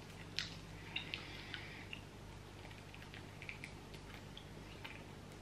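Faint, scattered clicks and crunches of a hard, chewy sweet being bitten and chewed.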